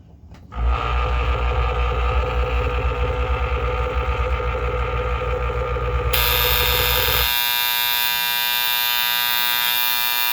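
Septic aerator pump plugged in and buzzing with a heavy mains hum. About six seconds in, its malfunction alarm starts a high, steady buzzing tone and the low hum drops out, leaving the alarm sounding. The alarm is the unit's warning that the pump is malfunctioning.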